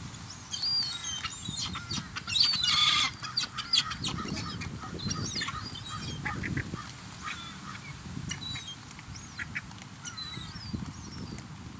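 Gulls calling: many short, overlapping squawks and cries from several birds, the loudest cluster about two and a half seconds in.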